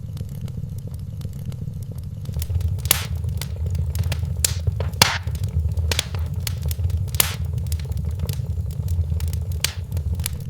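Wood fire in a fireplace crackling, with scattered sharp pops, the loudest ones in the middle, over a steady low rumble that swells a little after about two seconds.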